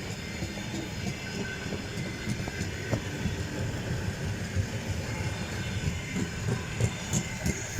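A train running on rails, its wheels knocking and clattering over the track with a steady rumble, with a few sharp metallic clicks near the end.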